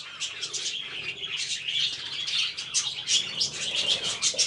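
Small birds chirping, a dense, overlapping run of short high chirps.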